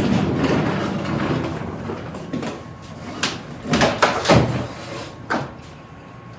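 Scraping and rubbing from an old car wash hose being pulled and dragged out, with several short knocks and scrapes in the middle.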